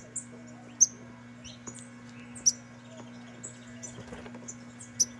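Saffron finches giving short, high chirps: about half a dozen scattered call notes, the strongest near one second, two and a half seconds and five seconds in.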